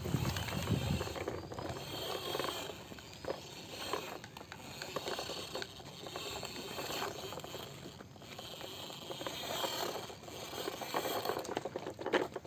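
Toy tractors and trucks scraping and rattling as they are pushed along and handled, with many small clicks.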